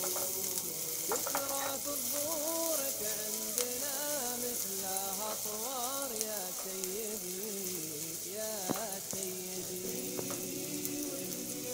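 Chopped onion, garlic and ginger sizzling steadily in hot oil in a pan, stirred with a silicone spatula, with soft background music.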